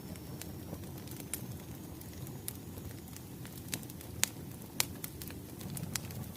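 Wood fire crackling: a low steady rumble of flames with scattered sharp pops, the loudest two about four and five seconds in.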